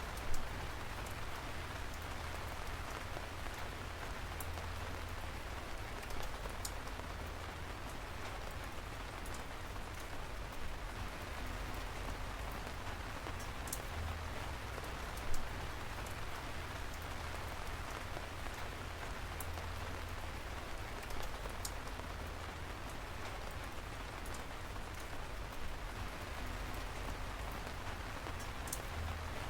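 Steady rain falling on a surface, with scattered close drops ticking sharply now and then and a few louder drop hits.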